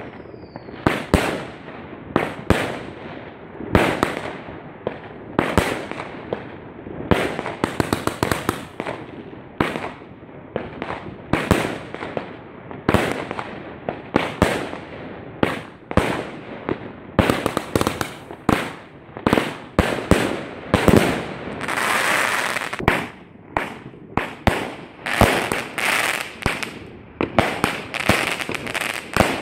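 Fireworks exploding overhead: an irregular, rapid series of sharp bangs, often several a second, going on throughout, with a longer rushing burst about two-thirds of the way through.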